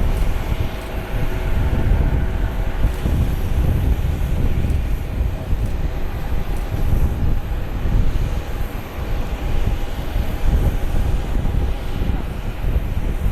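Jet airliner engine noise, a loud steady rumble, with a faint whine that fades over the first few seconds.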